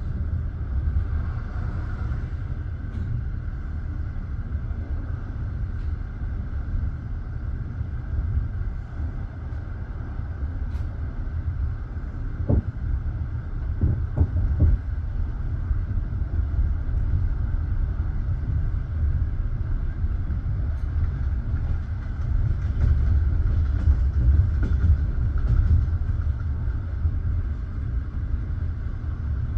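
Passenger train carriage rolling along the track: a steady low rumble of wheels on rail, with a few short sharp squeaks or knocks about halfway through.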